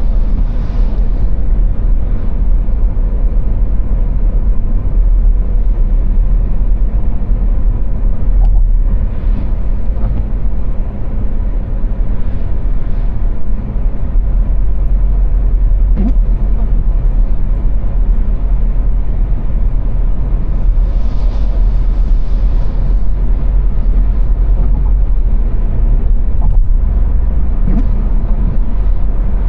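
A car driving at motorway speed on the autobahn: a steady, loud low rumble of road and engine noise with tyre hiss, swelling briefly now and then.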